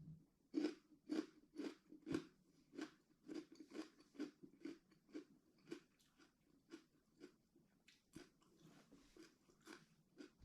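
A person chewing a mouthful of barking-deer meat salad close to the microphone: soft, crunchy chews about two a second, growing fainter and sparser after about halfway.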